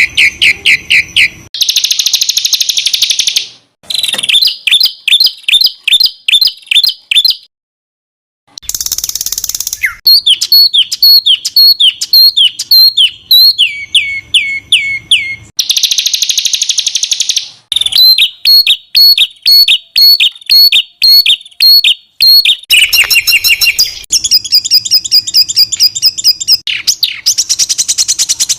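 Songbird song recorded for masteran: fast runs of repeated sharp notes and dense harsh, buzzy phrases, the 'tembakan kasar dan rapat' (rough, rapid-fire shots) used to tutor competition songbirds. The phrases switch abruptly, with one full break of about a second, as recordings are spliced together.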